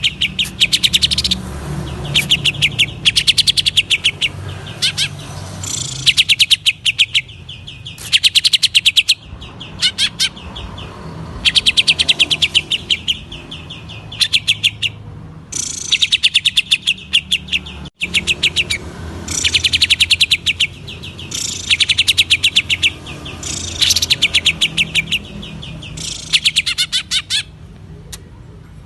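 Green leafbird (cucak ijo) singing in bursts of very rapid, rattling repeated notes, a burst every second or two.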